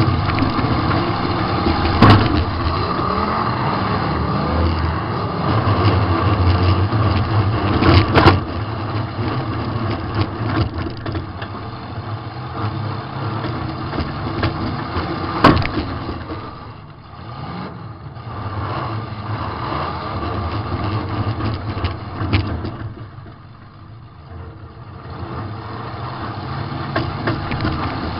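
Demolition derby car's engine running and revving heard from inside the car, rising and falling with the throttle and dropping back twice in the second half. Three sharp metal impacts of collisions with other cars stand out, about 2, 8 and 15 seconds in.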